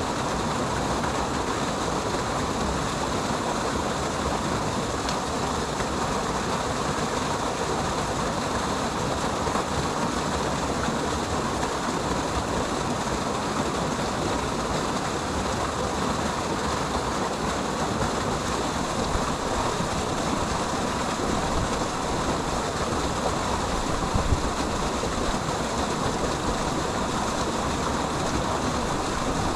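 Steady rush of a waterfall pouring through a rock crevice, an even wash of falling water.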